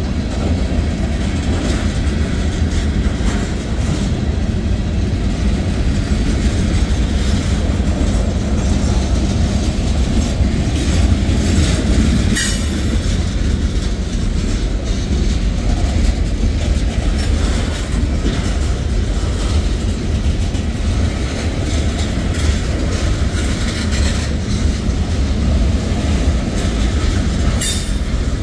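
Freight cars of a mixed manifest train rolling past: a steady low rumble of steel wheels on rail with clickety-clack over the joints. Two brief, sharp sounds stand out, about twelve seconds in and near the end.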